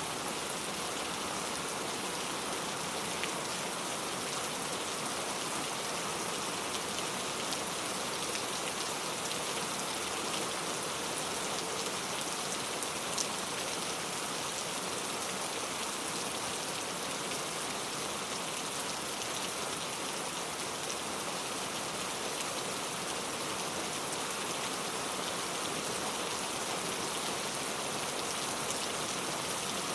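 Steady rain falling, with fine pattering drop ticks over an even hiss, and one slightly sharper drop about halfway through.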